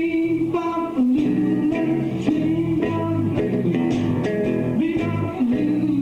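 Live blues-rock bar band playing loud: a sustained lead line that bends and wavers in pitch over a steady bass line and drum hits.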